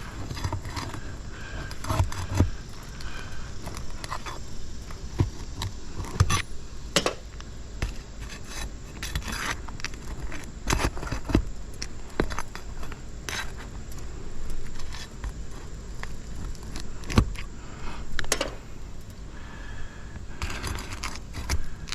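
Brittle asphalt roof shingles being lifted to reach their nails: irregular scrapes, clicks and crackles as the shingles are worked loose, with loose granules falling off.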